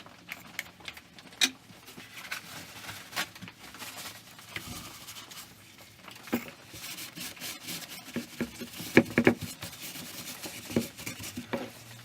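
Irregular handling noises: rubbing with scattered light knocks and taps, a cluster of sharper knocks about nine seconds in.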